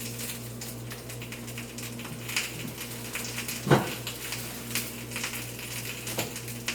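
Onions sizzling in oil on a hot grill, under a steady low electrical hum, with a few scattered knocks and clicks of kitchen handling, the loudest a little past halfway.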